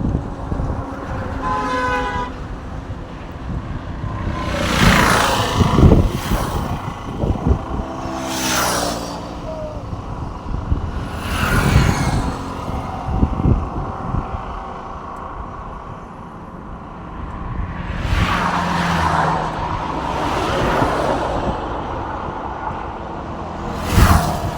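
Road traffic: cars and trucks passing one after another, each rising and fading. A short horn toot about two seconds in, and an engine note dropping in pitch as one vehicle goes by.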